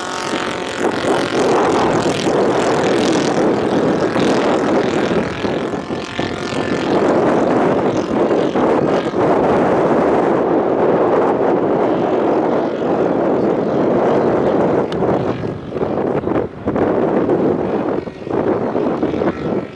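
Radio-controlled scale model airplane in flight, its engine and propeller making a steady drone that dips and swells in level over the last few seconds.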